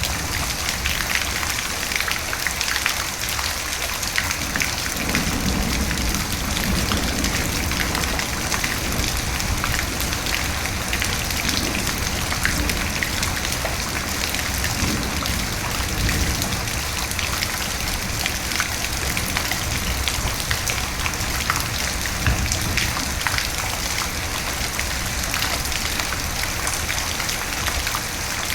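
Steady heavy rain with many individual drops pattering, and a few low rumbles of thunder swelling and fading underneath.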